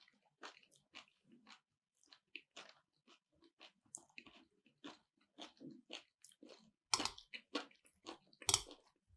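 Close-up mouth sounds of chewing chuka seaweed salad with nut sauce: a quick, irregular run of small wet crunches and crackles, with two louder crunches near the end.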